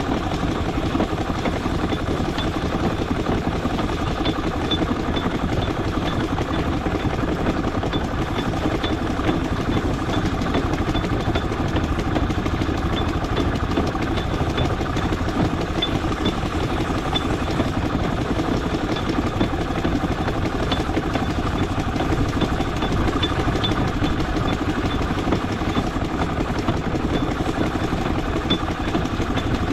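Large steam traction engine running on the move, a steady mechanical rumble with faint light ticks and clatter.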